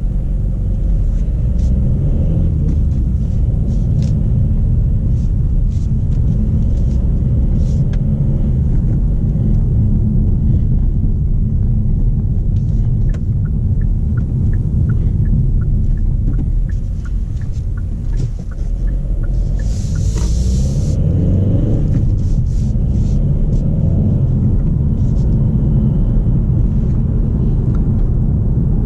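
Cabin sound of a 2020 Kia XCeed's 1.6 CRDi four-cylinder diesel pulling the car at low speed, with a steady low engine and road rumble. A run of light regular ticks comes about halfway through. Around two-thirds in there is a brief hiss, and the engine note rises as the car picks up speed.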